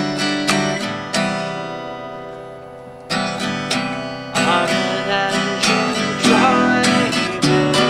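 Acoustic guitar strumming chords. About a second in, one chord is left ringing and fading for about two seconds before the strumming picks up again.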